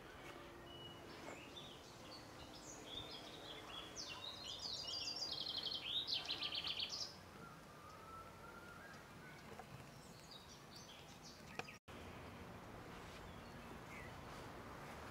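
A songbird singing a run of rapid, high trilled phrases for about three seconds in the middle, with a few fainter calls later, over a quiet outdoor background.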